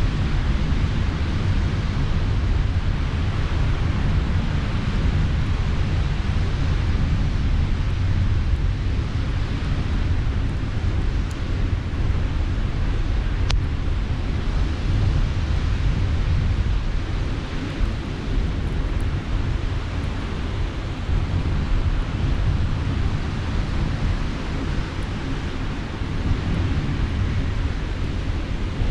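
Sea surf washing steadily, with wind rumbling on the microphone, and a single sharp pop about halfway through, likely from the campfire.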